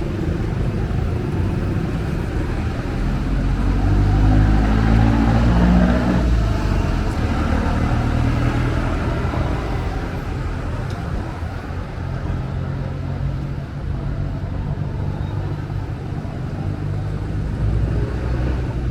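Wind buffeting the microphone over a low rumble of road traffic, swelling loudest a few seconds in.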